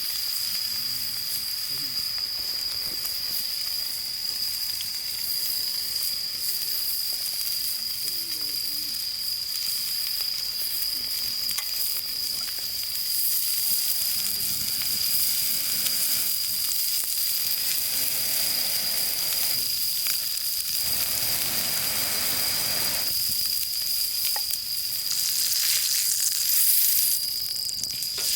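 Food sizzling as it fries in a hot pan, the sizzle growing louder a little under halfway through and again near the end. A steady high-pitched tone runs underneath.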